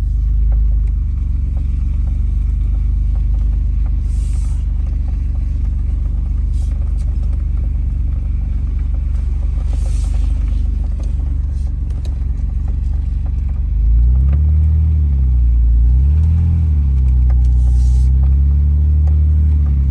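Car engine running at low speed, heard from inside the car as a steady low rumble. About two-thirds of the way in, the engine speed rises and falls twice as the car is driven on.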